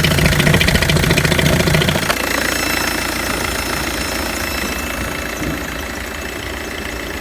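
Citroen Xantia's 2.0 HDi DW10ATED four-cylinder common-rail turbodiesel running. It runs slightly faster and louder for the first two seconds, then drops back about two seconds in and settles to a steady idle.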